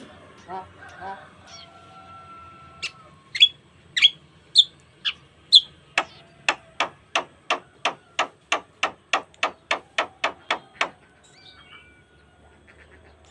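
Javan myna (jalak kebo) singing. It opens with a few harsh nasal notes and a held whistle, then gives loud sharp calls, then a fast, even run of about a dozen sharp notes, roughly three a second, and ends in softer chatter.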